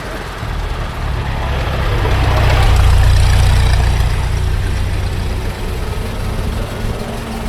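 An antique car's engine running as it drives past, growing louder to a peak about three seconds in and then fading away.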